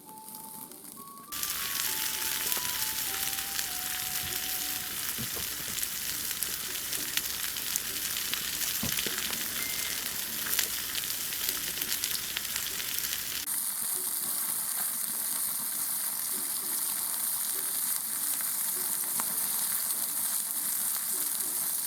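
Skewered chicken legs sizzling over a wood campfire as their fat renders out: a steady, dense frying hiss. It starts abruptly about a second in and changes character suddenly about halfway through.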